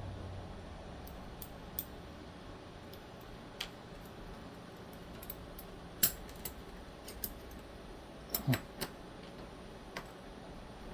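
Scattered small metallic clicks and taps from a folding knife's parts and tools being handled during reassembly. The loudest click comes about six seconds in, and a quick run of three or four comes near the end.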